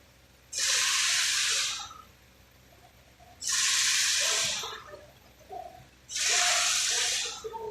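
Compressed-air gun hissing in three short bursts, each just over a second long and about three seconds apart.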